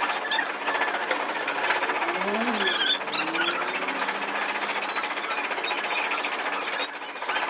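Power tool running with a rapid, steady hammering rattle, with a few short high squeals about two to three seconds in.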